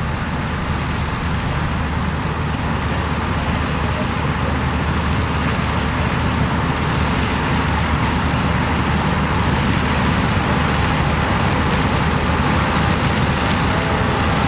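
Combine harvester running steadily while harvesting corn, a continuous dense engine-and-threshing noise that grows slightly louder.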